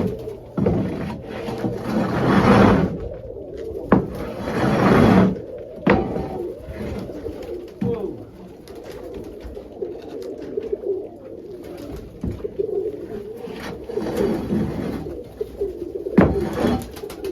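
Domestic pigeons cooing continuously in the loft, a low wavering coo heard throughout. A few louder scraping noises and sharp knocks break in, near the start, around four to five seconds in, and near the end.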